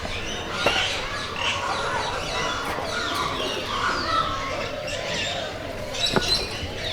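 Many birds calling together in an aviary: a dense, unbroken chorus of short overlapping chirps and calls.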